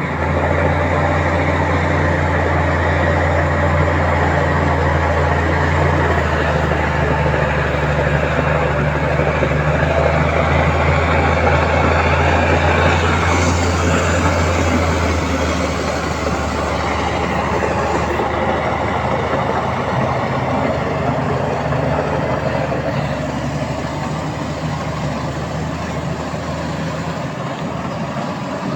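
Heavy diesel engine of earthmoving machinery running steadily, a strong low drone under a noisy rush; the low drone eases off about halfway through.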